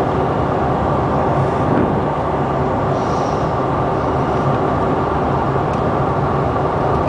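Steady cabin noise of a Canadair CRJ-700 jet under way, heard from inside the cabin: the even rush of its rear-mounted turbofan engines and the airflow, with a faint low hum underneath.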